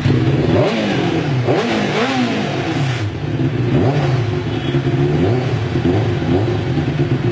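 Honda CBR sport motorcycle's inline-four engine revved in a few quick blips through its exhaust, the pitch rising and falling sharply. It then settles into a steady, slightly wavering idle.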